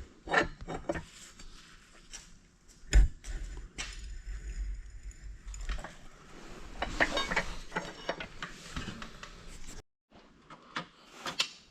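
Clinks and clanks of metal tools and parts being handled, with a loud knock about three seconds in followed by a low rumble for a few seconds.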